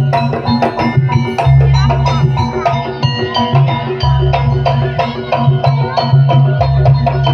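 Javanese jaranan accompaniment music: drums and pitched metal percussion beating a quick, busy rhythm over low notes held for a second or two at a time.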